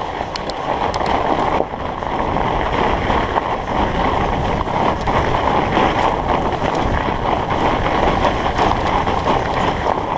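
Studded fat-bike tyres rolling steadily over packed snow and ice, a continuous crunching rush, with wind buffeting the microphone.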